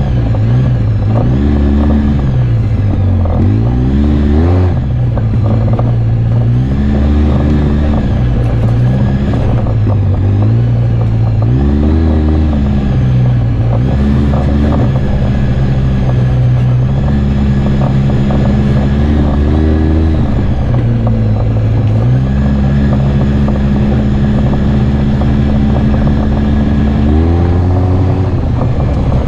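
Off-road vehicle engine running loud and continuous, its pitch rising and falling every couple of seconds as the throttle is worked. It holds steadier for a few seconds at a time in the second half, then revs up sharply near the end.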